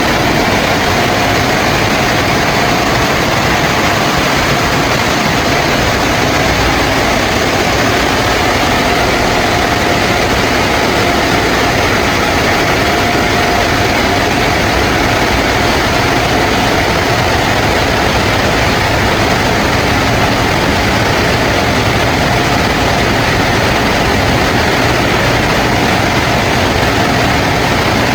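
PDQ ProTouch Tandem touchless car wash running steadily: a loud, even rush with a steady whine.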